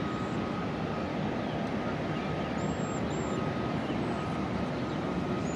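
Steady rumble of city transit bus diesel engines running at a busy bus terminal, with a faint steady whine and a few brief high chirps about two and a half to three seconds in.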